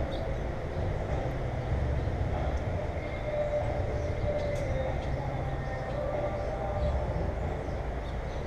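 A moving vehicle's steady low rumble, with a wavering mid-pitched whine on top.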